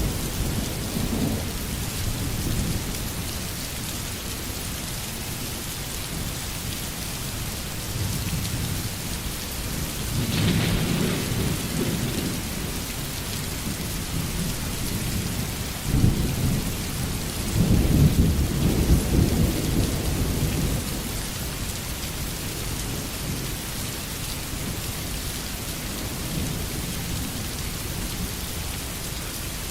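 Steady rain hissing, with low rolls of thunder: one about ten seconds in, and a louder, longer one just past the middle that starts with a sharp crack.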